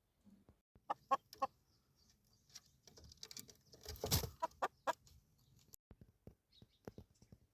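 Short bird calls in two quick runs of three, a few seconds apart, with a brief rustling noise between them.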